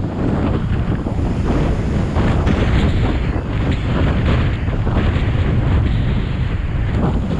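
Storm-force wind buffeting the microphone in a loud, continuous rumble, over the wash of rough sea surf.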